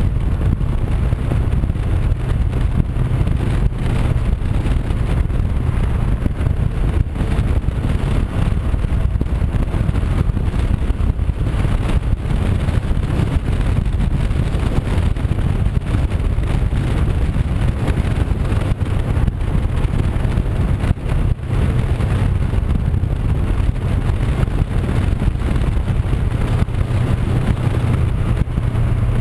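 Honda CB500X's parallel-twin engine running at a steady cruise, mixed with heavy wind rush on the microphone.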